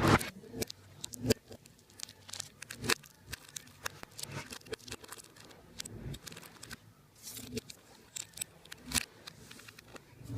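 Hands working some material: an irregular run of sharp snaps, clicks and tearing, rustling sounds, with the loudest snaps at the start and at the end.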